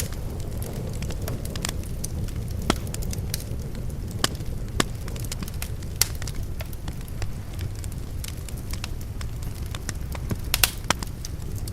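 Wood fire crackling, with irregular sharp pops, the loudest a little before the end, over a low steady rumble.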